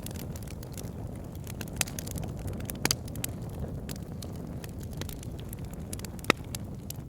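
Wood fire burning in a fireplace: a steady low rumble of flame with scattered crackles and sharp pops from the logs, the loudest pop about six seconds in.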